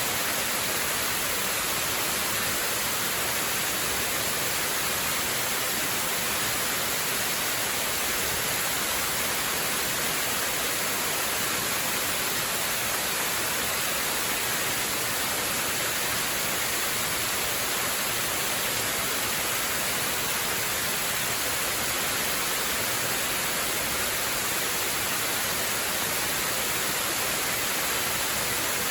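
A waterfall rushing steadily: an even, unbroken hiss of falling water with no separate splashes or changes.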